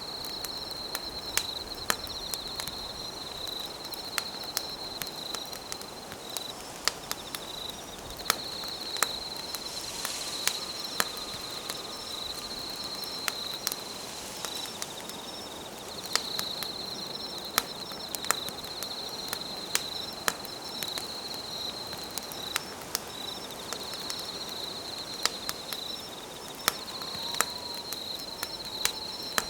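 Wood campfire crackling with scattered sharp pops, over insects trilling steadily at a high pitch in phrases of a few seconds with brief breaks.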